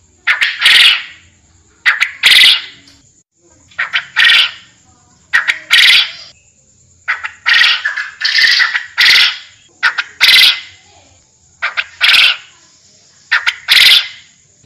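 Forest quail (puyuh hutan) calling: the same phrase over and over, a short note followed by a longer, louder one, about every one and a half seconds.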